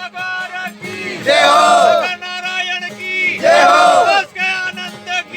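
A group of voices chanting short devotional phrases together in a call-and-response jaikara style. Each phrase rises and falls, and one comes about every two seconds. A steady held tone sounds underneath.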